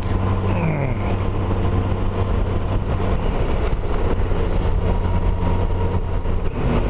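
2012 Honda Gold Wing's flat-six engine running steadily at road speed under a broad haze of road noise, with a brief falling tone about half a second in.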